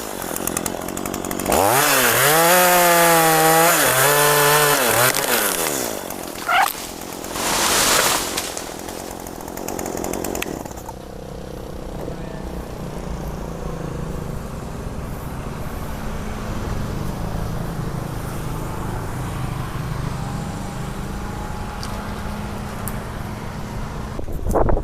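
Chainsaw cutting mahogany at high revs, its engine pitch sagging and recovering as the chain bites into the wood. A couple of short throttle blips follow, and for the second half the saw runs at a steady idle.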